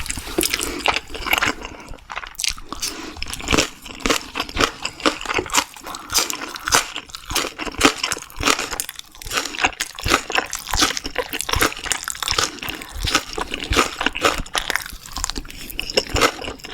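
A person chewing and biting food up close to the microphone: a dense, continuous run of quick crunches and mouth smacks.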